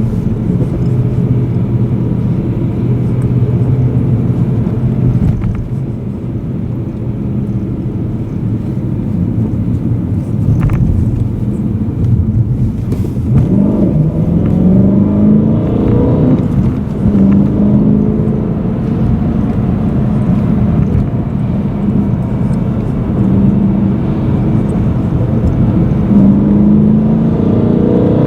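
BMW M3 E92's 4.0-litre V8 heard from inside the cabin, running at low revs in city driving. About halfway through it rises in pitch as the car accelerates, settles at a steady pitch, then rises again near the end.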